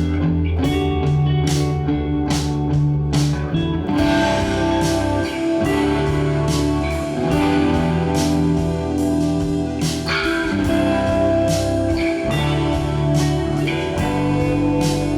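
Instrumental rock piece on Fazley FTL200NT electric guitars, with bass guitar and a programmed drum kit. About four seconds in, the arrangement fills out into a denser, brighter full-band passage.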